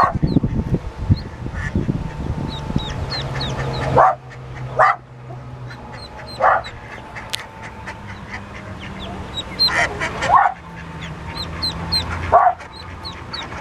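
Newly hatched ducklings peeping steadily in high, thin chirps, while the mother duck gives about five louder calls. A low rumble runs under the first four seconds.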